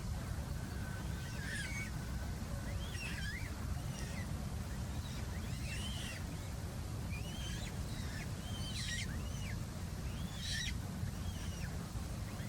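A bird calling over and over in short, harsh phrases of curving notes, about one phrase a second, over a steady low rumble.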